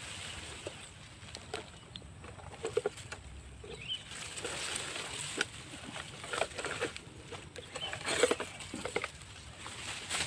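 Dry grass and brush rustling and crackling in irregular bursts as ground vegetation is cleared to make room for a bird snare.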